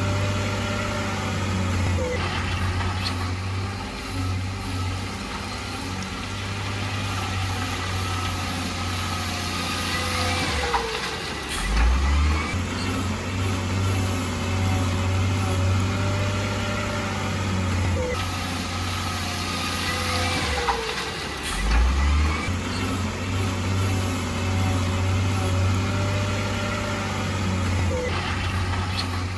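Heavy construction machinery engines running steadily with a deep hum. Twice, about ten seconds apart, the engine note dips and shifts, and brief rising and falling whines come through.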